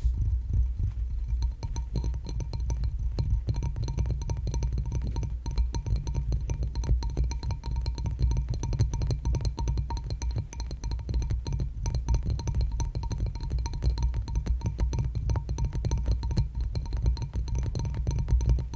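Rapid tapping on a hard object, many taps a second, over a steady low rumble.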